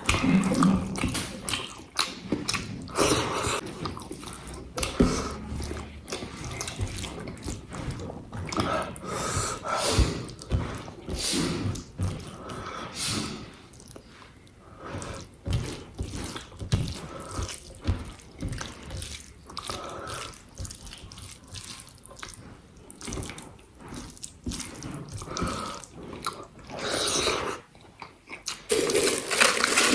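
Close-miked eating: wet chewing and lip smacking of rice and egg curry, in many short irregular clicks and smacks.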